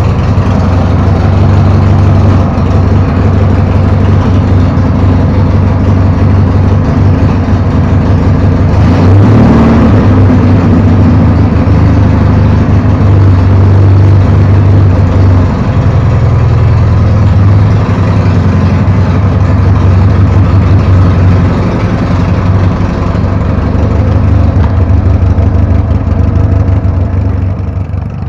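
Ural/Dnepr-type M72 motorcycle's flat-twin engine running loudly while the sidecar outfit is ridden, its pitch shifting slightly about halfway through.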